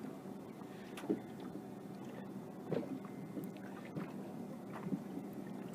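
Water sloshing and lapping around a sea kayak as it is lowered on a boat's kayak lift, with a few light knocks or splashes and a low steady hum underneath.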